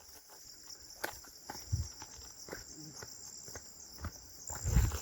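Footsteps on a dirt hillside path, a scatter of uneven steps with a heavier thud near the end, over a steady high insect chorus.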